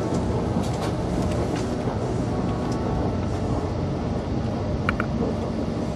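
VIA Rail passenger train running along the track, heard from inside the car: a steady rumble with scattered light clicks, and a couple of short high squeaks near the end.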